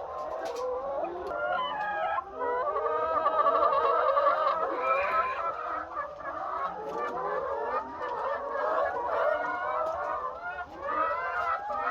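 A large flock of laying hens clucking and calling at once, many overlapping voices in a continuous din.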